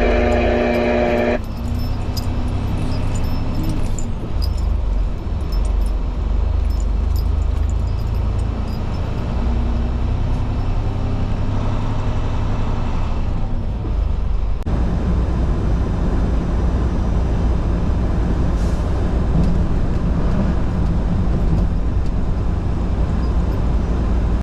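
Semi-truck diesel engine running as it warms up, a steady low rumble. A short pitched tone sounds at the very start, and the engine note shifts a little over halfway through.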